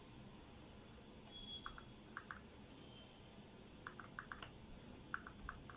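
Faint clicking of remote-control button presses, each a quick double click, in several short runs over low room hiss.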